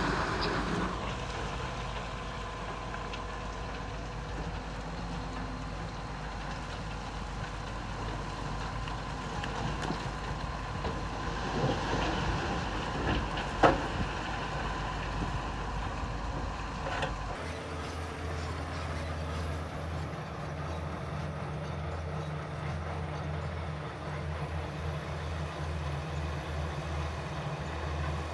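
Diesel engines of heavy earthmoving machinery running, with one sharp knock about halfway through. A little past halfway the sound changes abruptly to a deeper, steadier engine drone.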